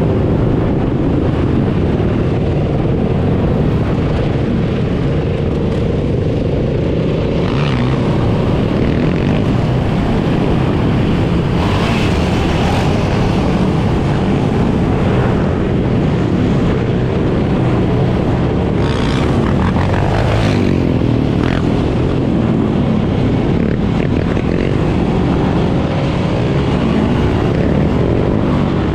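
Many dirt bike and ATV engines running together in a loud, continuous drone, with individual engines revving up and down now and then.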